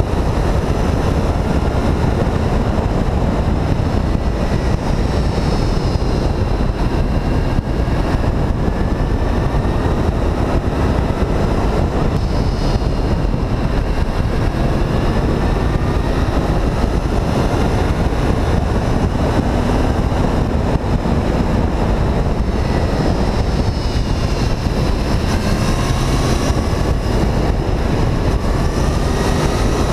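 Honda VFR800 VTEC's V4 engine running under way, its pitch climbing and dropping several times with throttle and gear changes, half buried under heavy wind rush on the microphone.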